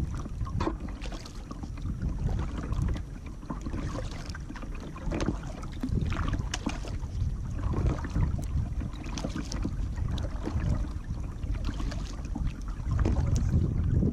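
Kayak paddle dipping and splashing in the water stroke after stroke, with wind rumbling on the microphone.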